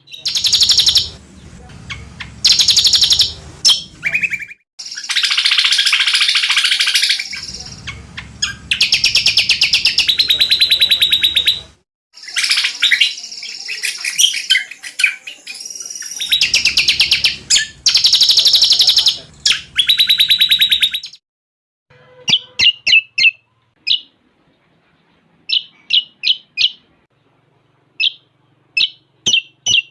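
Blue-winged leafbird (cucak combok) song: long bursts of very rapid, trilling notes with gaps between them. From about 22 seconds in, only short separate chirps remain.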